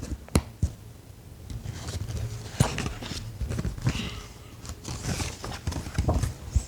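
Handling noise: irregular soft clicks and knocks with a few faint rustles over a low hum.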